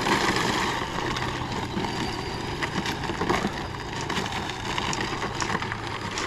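Traxxas Travis Pastrana rally RC car driving over rough dirt, its electric motor and tyres making a steady noisy rush with scattered small crackles and clicks.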